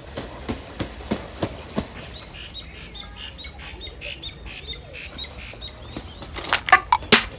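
Birds chirping, with scattered sharp taps and clicks and a louder run of taps near the end.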